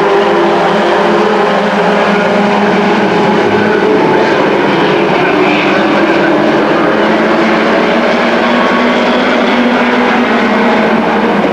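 A field of race trucks circling a short oval track, several engines running hard at once with their notes overlapping, loud and steady with slow shifts in pitch as the trucks pass.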